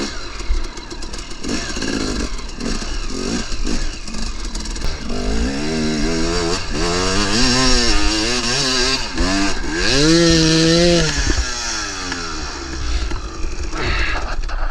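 KTM 300 two-stroke dirt bike engine revving up and down in a series of throttle blips, then held at a high steady pitch for about a second near two-thirds of the way through.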